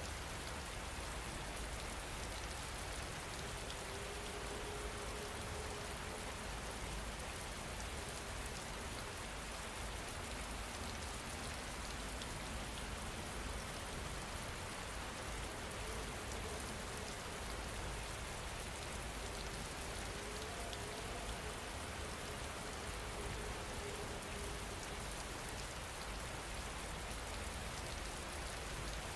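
Steady rain falling, an even hiss that keeps on without a break, with a faint wavering hum that comes and goes.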